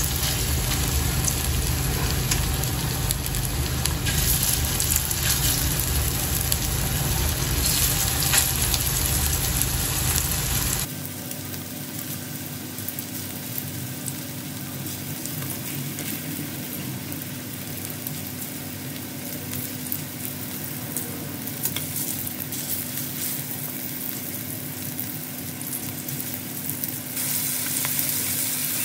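Pieces of flour-coated chicken breast sizzling as they fry in hot oil in a wok. The sizzle is louder at first and drops suddenly to a quieter, steady level about eleven seconds in.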